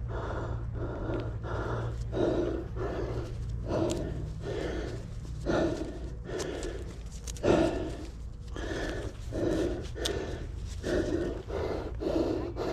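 A person panting hard, a quick steady rhythm of about two breaths a second, with a few sharp clicks over it.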